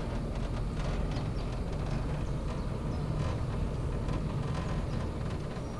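Cable car running along its cable: a steady low rumble and hiss with scattered light clicks.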